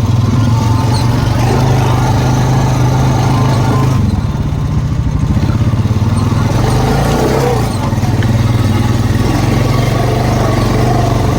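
ATV engine running steadily while riding along a trail, with a brief dip in level around the middle.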